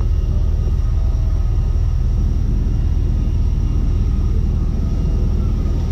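Steady, loud low rumble of jet airliner noise on the apron, with faint steady whining tones above it.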